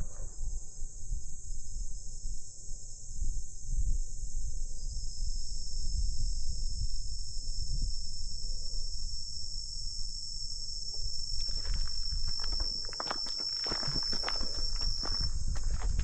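Steady high-pitched insect chorus, with another insect joining on a single high, even note about five seconds in that stops near the end. From about three-quarters of the way through come footsteps, over a constant low rumble.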